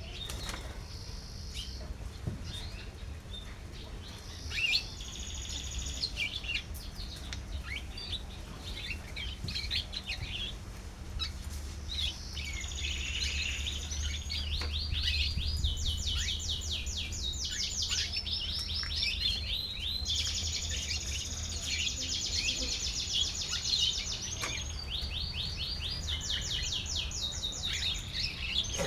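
Domestic canary of the pied 'panda' colour variety singing. It starts with scattered sharp chirps and notes, then from about twelve seconds in delivers long runs of very fast, rattling trills, many notes a second, one after another.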